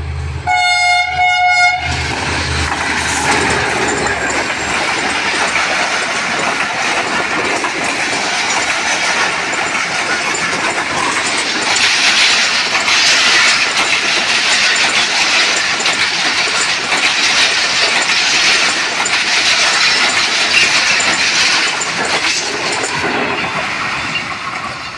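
Diesel locomotive sounds a single horn blast of just over a second, about half a second in, over the low rumble of its engine as it passes at speed. The passenger coaches then rush past with their wheels clattering over the rail joints, loud and steady, and the sound fades near the end.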